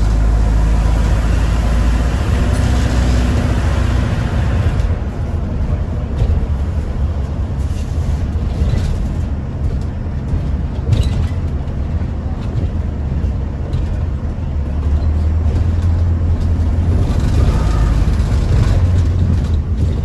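Inside a moving London bus: the engine runs steadily with a low hum. A rushing hiss fills the first four or five seconds, and the engine pulls louder for a few seconds near the end.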